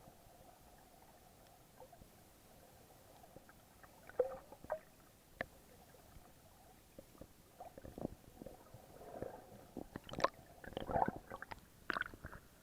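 Water sloshing and gurgling around a snorkeller's action camera, with scattered clicks and knocks that come thicker in the last few seconds.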